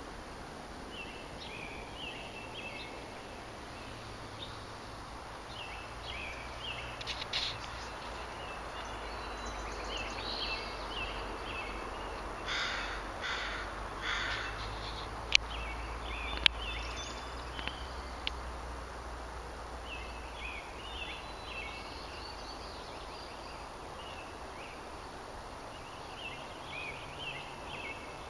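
Wild birds calling: short chirps come and go throughout, and about halfway through there are three harsh caws in a row. They sit over a steady outdoor hiss, and two sharp clicks about a second apart follow the caws.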